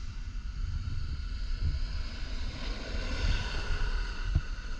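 Wind buffeting the microphone in a low, gusty rumble, with the rushing road noise of a passing vehicle swelling and fading a little past the middle.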